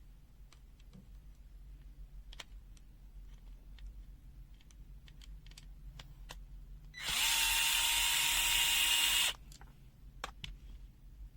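Small electric screwdriver running at a steady speed for about two seconds, backing out a screw from a multimeter's plastic case. Light clicks and taps of handling come before and after it.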